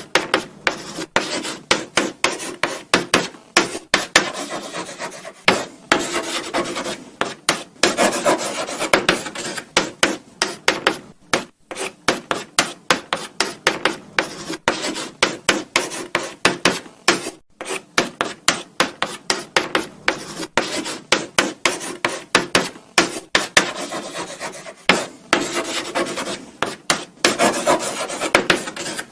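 Chalk writing on a blackboard: quick, uneven scratching strokes with sharp taps as the chalk meets the board, and a few longer continuous scrapes.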